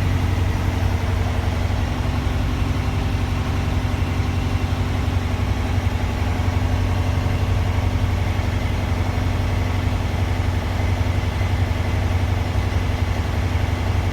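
Truck diesel engine running steadily at a raised 1500 RPM while its air compressor builds brake air pressure from 85 to 100 psi, during a timed compressor build-up check. The engine note holds constant throughout, with no change in speed.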